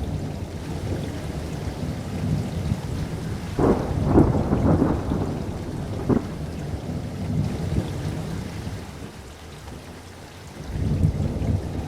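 Thunder rumbling over steady monsoon rain, swelling to a crackling peak about four seconds in, with a sharp crack about two seconds later before the rumble eases.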